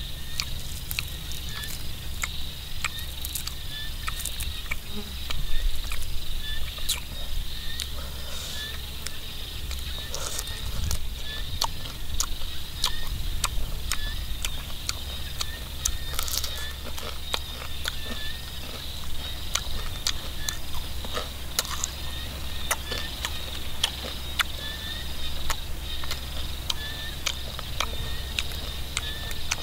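Close-up crunching and chewing of deep-fried giant water bugs, heard as many sharp, irregular clicks and mouth sounds. Underneath is a steady chorus of insects in the grass, with a short chirp repeating, and a low steady rumble.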